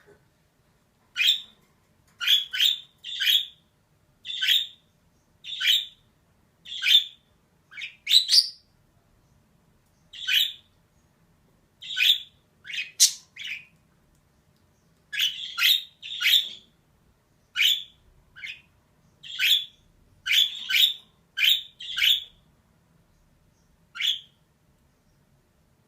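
Female budgerigar giving short, harsh chirping calls, about one a second and sometimes two in quick succession, with brief silences between.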